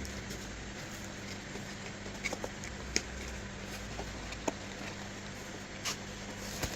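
Scattered light clicks and taps from a battery pack and vacuum parts being handled, about six spread through, over a faint steady low hum.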